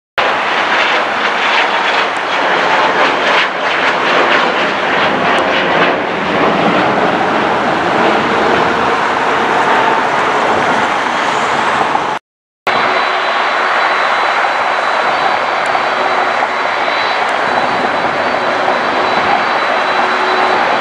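Jet airliner engines, loud and steady, in two stretches broken by a brief cut about twelve seconds in; the second stretch carries a faint, high, steady whine.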